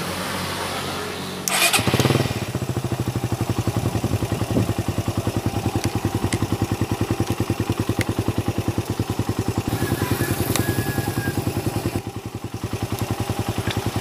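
Motorcycle engine starting: it catches about one and a half seconds in with a short loud burst, then idles with an even, rapid firing pulse.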